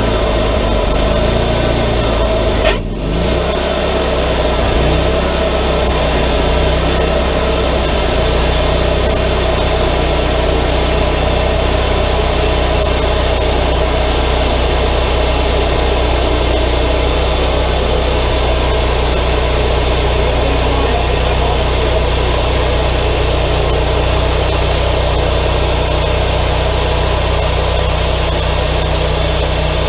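Wood-Mizer LT40 hydraulic sawmill running steadily, its engine and band saw making a continuous drone, with a brief break about three seconds in.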